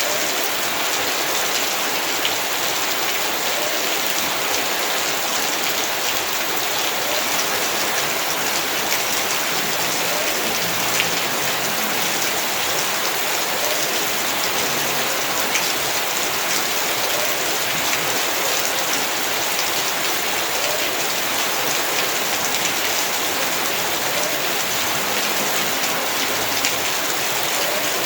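Heavy rain falling steadily, a dense even hiss of drops pattering on surfaces with many small individual drop ticks.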